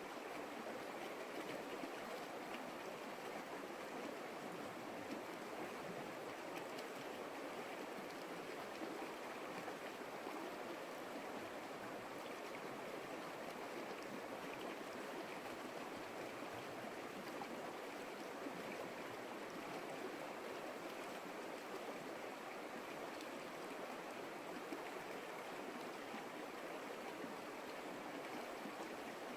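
Creek water flowing, a steady, even rush with no pauses or changes.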